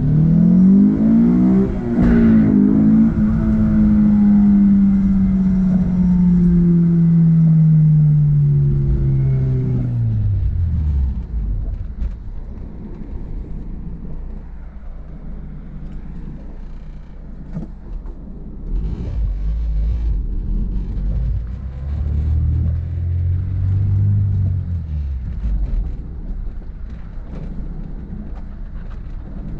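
Honda S2000's inline-four engine pulling hard, its note climbing steeply for about two seconds to a sharp knock, then falling slowly for several seconds as the car slows. It then runs low and steady, with a second, shorter rise and fall in revs later on. The engine is running clean at high revs, its misfire fixed.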